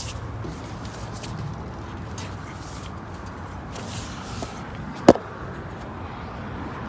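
Steady low outdoor rumble with a few faint scuffs, and one sharp knock about five seconds in.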